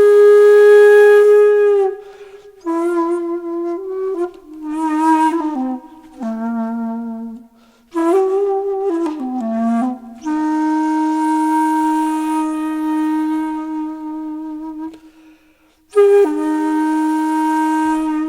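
Background music: a solo flute playing a slow melody of long held notes with a breathy tone, broken by short pauses.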